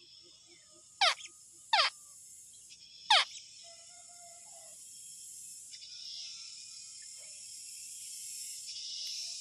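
A bird gives three sharp calls in the first few seconds, each a quick steep downward sweep in pitch. Behind them runs a steady high-pitched buzz of insects that grows louder toward the end.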